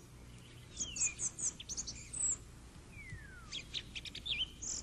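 Birds chirping: quick runs of short high chirps, with a couple of falling whistled notes, one about three seconds in that slides a long way down.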